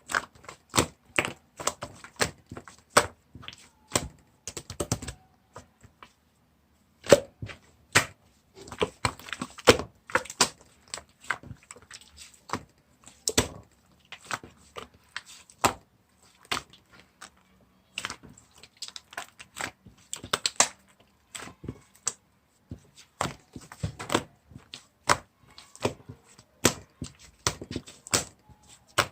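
Chocolate ice-cream slime being squeezed and poked by hand, making quick sticky clicks and pops in irregular runs, with a brief pause about six seconds in.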